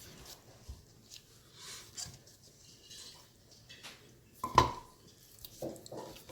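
Kitchenware being handled while ingredients go into a clay tanjia pot: light scattered clicks and rustles, one sharp ringing clink about four and a half seconds in, and a couple of softer knocks near the end.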